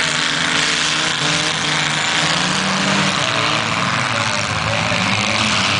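Engines of several old cars and trucks racing on a dirt short track, running and revving with rising and falling pitch over a steady rushing noise.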